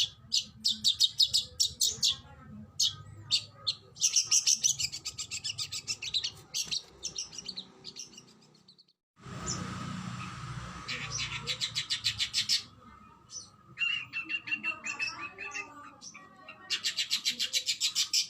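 Oriental magpie-robin (kacer) singing: fast runs of sharp, high repeated notes fired in quick succession, the rapid 'tembakan' bursts, mixed with more varied phrases. The song breaks off for about half a second around nine seconds in, then resumes.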